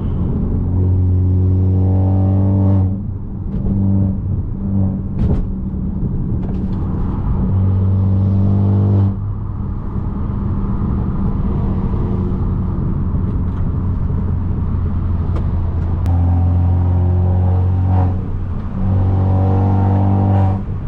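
Straight-piped, turbocharged Mercedes C250 exhaust heard on a drive, droning loudly under throttle in four pulls that each cut off sharply when the throttle closes: about three seconds in, about nine seconds in, near eighteen seconds and at the very end.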